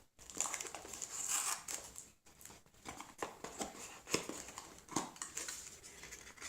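Small cardboard box and plastic packaging of a pair of wireless earbuds being opened and handled: irregular rustling and crinkling with scattered light clicks and taps.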